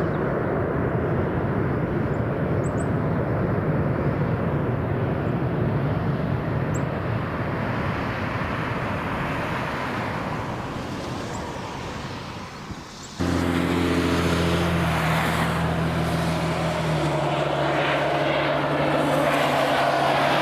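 Aircraft engine roar that slowly fades away. It then cuts off suddenly to a propeller aircraft's engines droning at a steady pitch, with the tone shifting a few seconds later.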